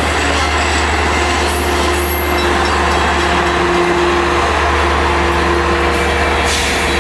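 Long Island Rail Road train running through a station: a steady, loud rumble with a constant deep hum underneath.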